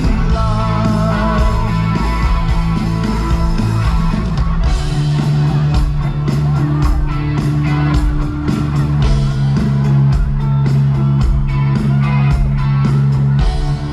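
Loud live band music, an instrumental passage led by guitar over sustained bass notes. A steady drum beat comes in about four and a half seconds in.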